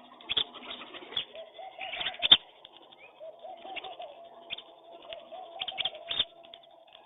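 Pigeons cooing in a low, wavering, pulsing series, with sharp taps and clicks scattered throughout, the loudest a little over two seconds in.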